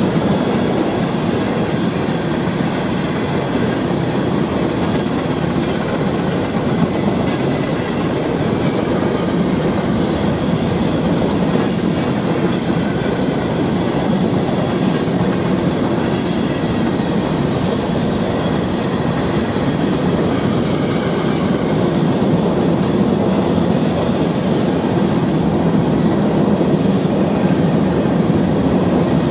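Freight cars of a CSX mixed manifest train rolling past: a steady noise of steel wheels on the rails.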